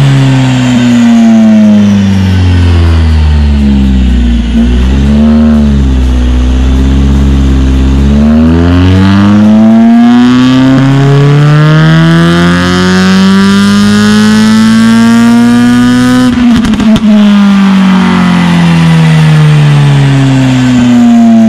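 Honda Civic FN2 Mugen Type R's 2.0-litre four-cylinder engine revving through its exhaust, in a full-throttle pull on a rolling road during mapping. The revs fall and hold low for a few seconds, then climb steadily in pitch for about eight seconds. About three-quarters of the way through they cut off abruptly with a short burst of crackles, then fall away and begin rising again near the end.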